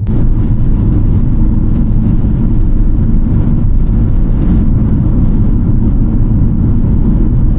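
Heavy wind buffeting the microphone in a car at road speed: a loud, steady low rumble that sets in suddenly at the start.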